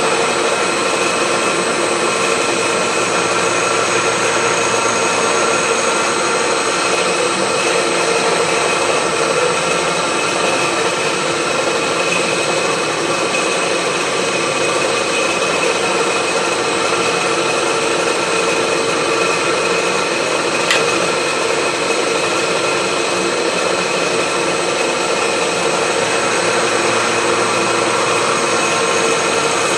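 Milling machine running a carbide end mill through a hardened steel wood-chipper blade: a steady cutting drone with several constant tones. The cut is heavy enough that the steel is starting to take on heat colour. There is a single sharp tick about two-thirds of the way through.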